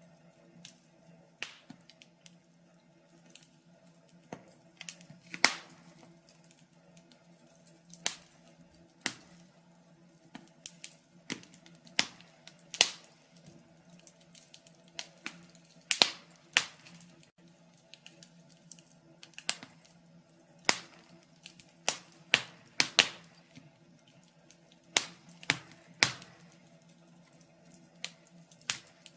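Wood fire crackling: irregular sharp pops and snaps, some much louder than others, over a faint steady hum.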